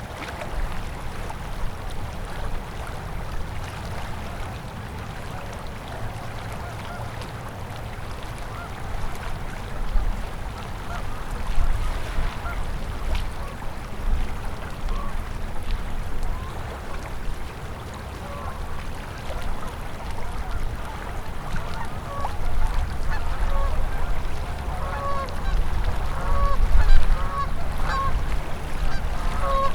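Flowing river water with a low rumble underneath, and geese honking: short calls that come more and more often in the second half.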